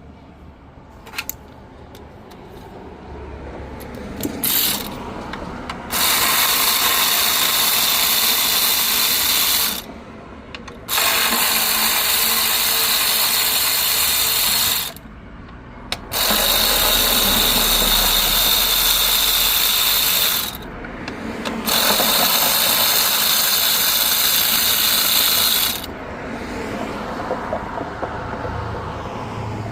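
A power ratchet running in four bursts of about four seconds each, with short pauses between them, working the 8 mm bolts on the intake manifold.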